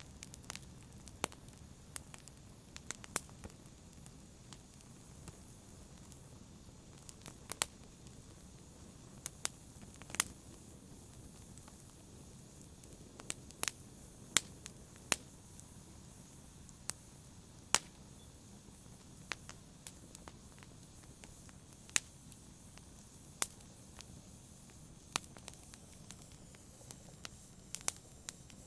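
Wood campfire crackling: irregular sharp pops and snaps, about one every second or two, over a faint low steady hiss of the burning.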